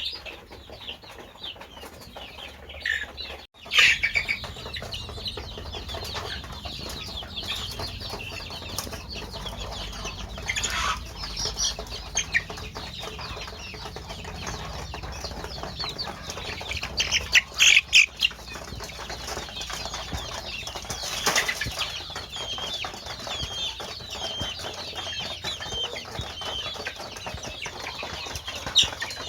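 Chickens calling and clucking, with wing flapping; many short high calls run throughout, and a few louder bursts of calls or flapping stand out about 4, 11, 18 and 21 seconds in.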